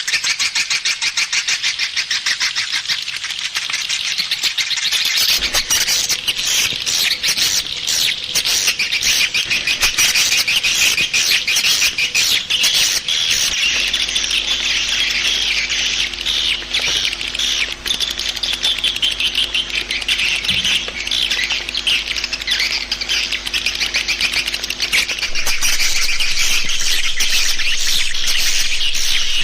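Swiftlets calling: a loud, dense, unbroken high-pitched twittering chatter with rapid clicky chirps, the kind of swiftlet call sound played to attract swiftlets to a nesting house.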